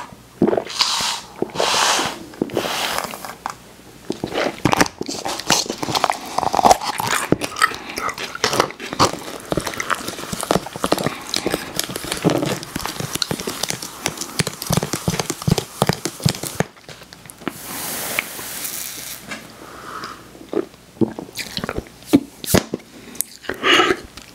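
A person biting and chewing fast food: a dense run of crunches and wet mouth clicks, with a short hissing rustle about three quarters of the way through.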